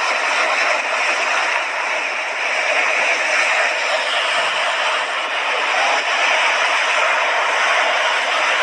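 Mediterranean sea waves washing onto the shore, a steady rushing surf with no breaks.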